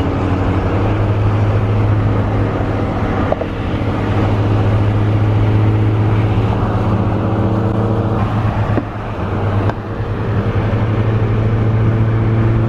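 Car engine running steadily under way, a loud low drone that dips briefly a few times.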